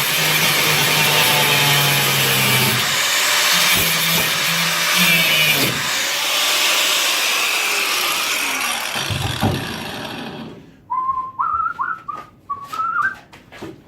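Angle grinder cutting into the car's steel body panel, its motor pitch wavering under load, then spinning down about ten seconds in. After that come a few short whistled notes and light knocks.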